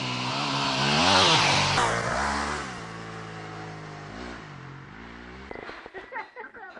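Dirt bike engine running on a rough road, its pitch rising and falling as the throttle changes, with a louder rush of noise about a second in. The engine sound cuts off abruptly about five and a half seconds in.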